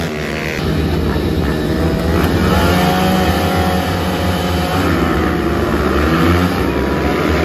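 Pit bike engines running on track, several at once, their pitch rising and falling as they rev through the gears.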